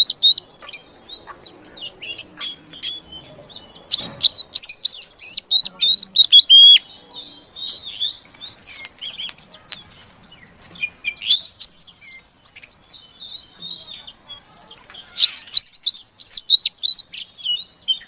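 Female oriental magpie-robin (kacer) calling: quick runs of sharp chirps and short whistled notes, coming in several loud bursts with softer chirping in between.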